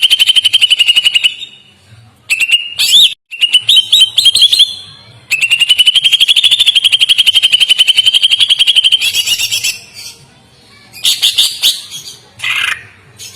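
A songbird singing two long, rapid, even trills held at one high pitch, the first ending just over a second in and the second lasting about four seconds from roughly five seconds in. Between them come short rising chirped phrases, and scattered short chirps follow near the end.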